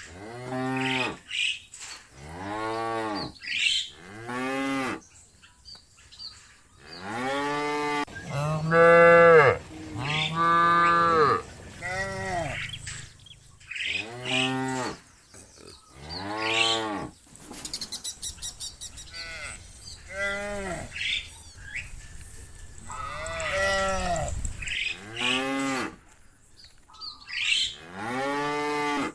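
A herd of cows mooing over and over, one long call after another, about a second each, some overlapping and some loud.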